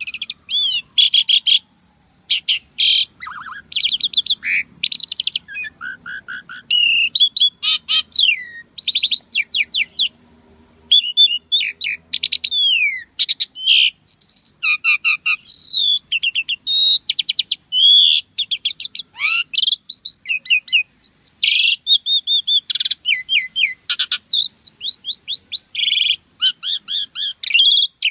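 Asian pied starling (jalak suren) singing nonstop: a fast, varied stream of whistles, rising and falling glides and rapid chattering clicks, in the full, mimicry-rich song that keepers call gacor.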